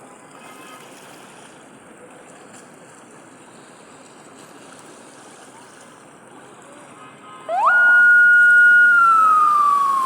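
Steady wash of sea waves, then about seven and a half seconds in a loud siren wails: its pitch jumps up, holds for about a second, then slides slowly down.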